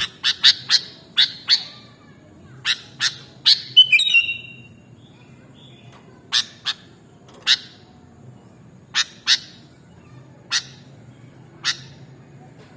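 Sooty-headed bulbul (kutilang) calling: a string of short, sharp chip notes in irregular pairs and small groups, with a brief warbled note about four seconds in.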